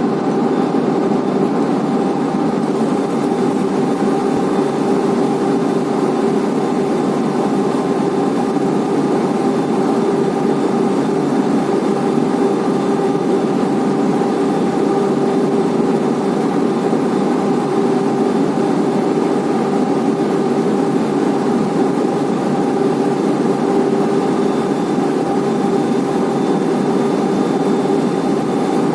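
Blast furnace main charging conveyor running: a loud, steady mechanical drone with several constant hum tones, unchanging throughout.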